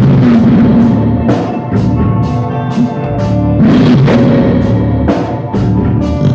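Loud rock music with a full drum kit and guitar, the cymbals struck on a steady beat a little over twice a second.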